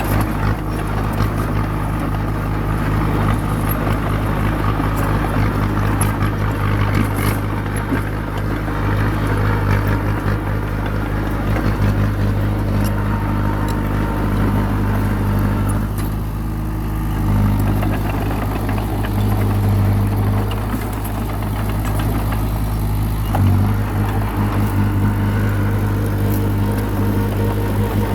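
Diesel engine of a small crawler bulldozer running steadily, its note shifting for a few seconds in the middle, with light clanking and a single knock about two-thirds of the way through.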